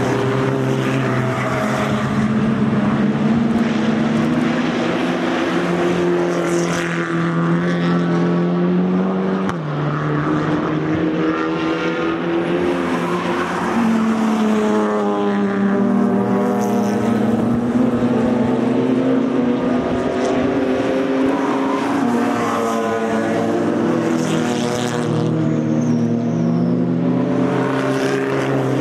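Several race cars passing one after another at racing speed with open exhausts, their overlapping engine notes rising and falling through gear changes as they go by.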